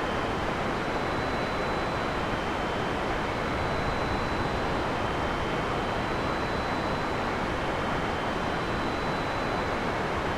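Heavy rain falling steadily in a forest: an even, unbroken hiss with no thunder. Faint, thin, steady high tones sit above it.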